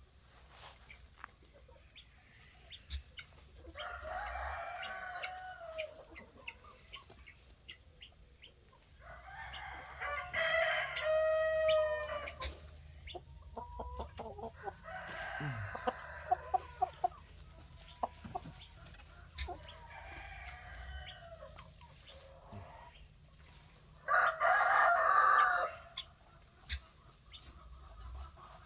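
Roosters crowing several times among clucking chickens, with light clicks and taps in between. The loudest crow comes near the end.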